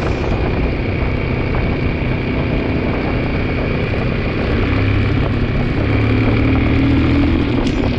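Yamaha 225 motorcycle's single-cylinder engine running while ridden, picking up revs about halfway through and easing off near the end. The owner suspects a clutch or transmission fault behind a clunking noise on this bike.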